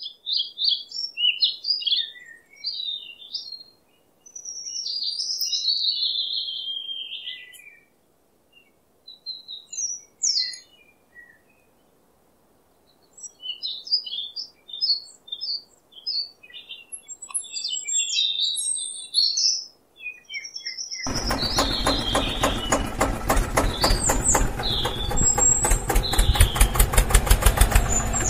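Small birds chirping and twittering in short bursts. About 21 seconds in, an engine starts running with a rapid, even pulse, much louder, while the chirping goes on over it.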